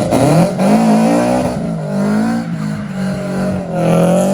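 Car engine revving hard, its pitch rising and falling several times, with tyre squeal from a burnout.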